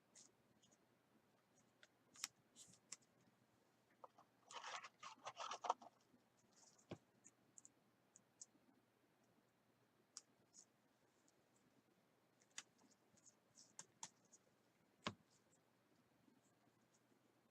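Faint handling of trading cards and their packaging: scattered light clicks and scratches, with a brief rustle about four and a half seconds in and two sharper ticks later.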